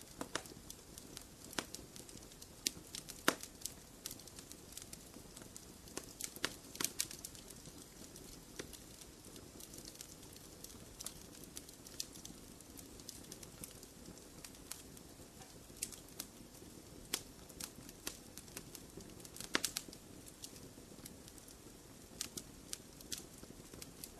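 Wood fire crackling in a fireplace: irregular sharp pops and snaps over a low steady rush of flame, with a quick cluster of louder pops about three-quarters of the way through.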